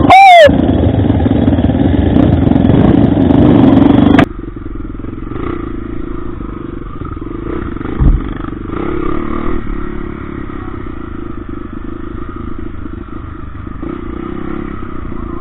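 Motorcycle engine running while riding on a dirt road. It is loud and steady for about four seconds, then drops suddenly to a quieter run with rattling, and a short thump comes about eight seconds in.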